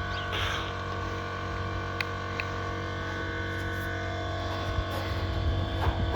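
A steady mechanical or electrical hum, with a few faint clicks.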